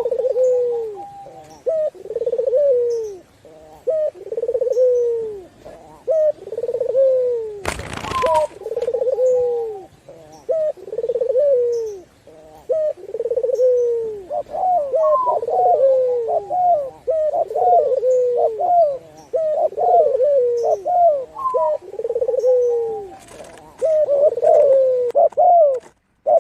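Doves cooing: a steady run of low, falling coos about every two seconds, coming faster and overlapping with higher notes in the second half. A short noisy burst about eight seconds in.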